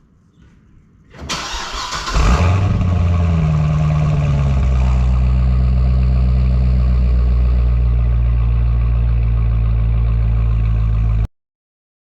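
A 2010 Corvette ZR1's supercharged 6.2-litre LS9 V8 starting: a brief crank, then it catches about two seconds in with a rev flare. It falls to a steady, deep idle about four seconds in, and the sound cuts off suddenly near the end.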